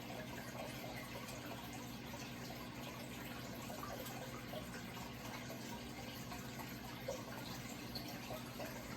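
Running water trickling and splashing steadily, with small scattered splashes and a low steady hum underneath.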